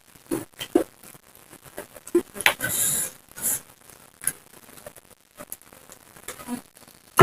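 Close-up eating sounds: irregular crunching and chewing of food with wet mouth clicks and smacks, and a brief hissy rustle about three seconds in.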